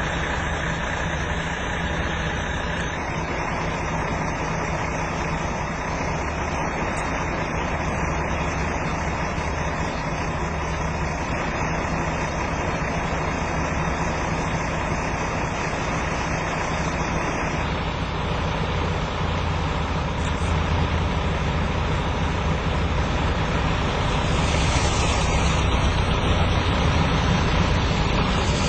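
Motor vehicle running steadily, a low engine hum under broad road or engine noise that grows somewhat louder in the last few seconds.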